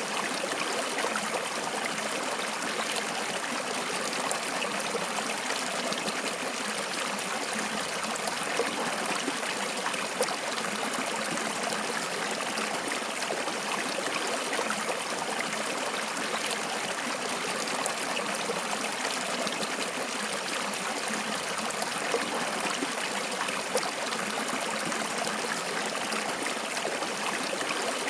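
Flowing stream water running steadily, a continuous rushing and trickling with small splashes here and there.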